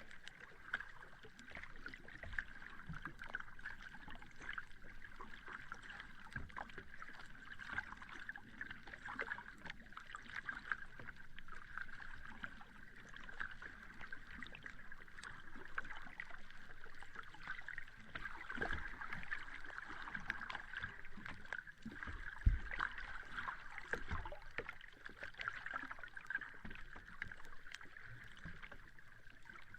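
Sea water washing and lapping at the shore: a steady hiss with constant fine crackling, and a few low thumps, the loudest about 22 seconds in.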